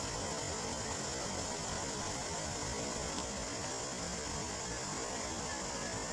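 Steady rain falling on open water: an even, unbroken hiss.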